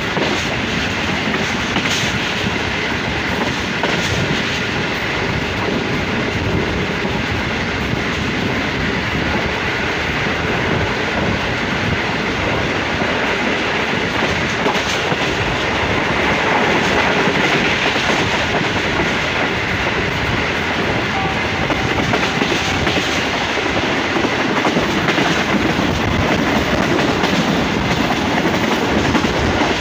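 Passenger coaches of a moving train running steadily at speed: the wheels rumble on the track, with an occasional click over rail joints. It grows slightly louder about halfway through.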